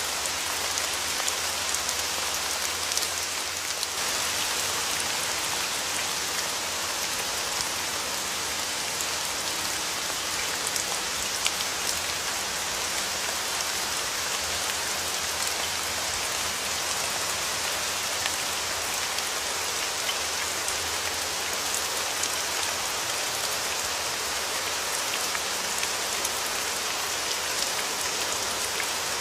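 Steady rain falling, a dense even hiss of drops with scattered individual drop ticks.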